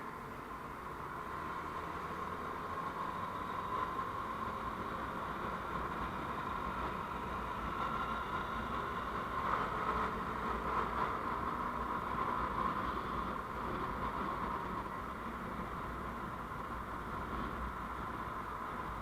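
Steady vehicle running and road noise recorded on the move, growing slightly louder toward the middle and easing off again.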